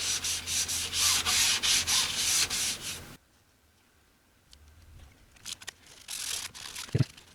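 Cloth rubbing over the dial of a Zenith Trans-Oceanic radio in quick back-and-forth strokes for about three seconds, then stopping; fainter rubbing resumes a couple of seconds later, with a light knock near the end.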